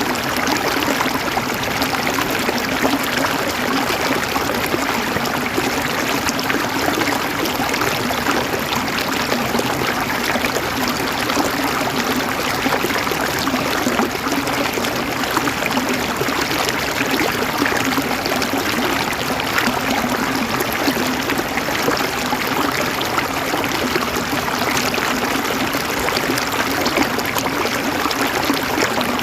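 Flowing water running steadily, an even, continuous sound with no breaks or changes.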